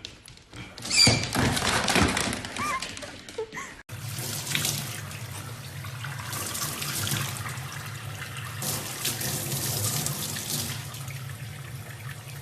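Water running steadily, like a tap into a sink, with a low hum under it. It starts at a sudden cut about four seconds in, after a louder, noisier passage with a few short high squeaks.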